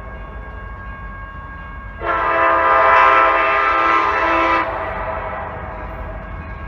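Locomotive air horn of a CSX freight train led by an EMD SD70MAC. The horn's chord sounds steadily and faintly, swells into one loud blast lasting about two and a half seconds, then falls back. A low rumble from the train runs underneath.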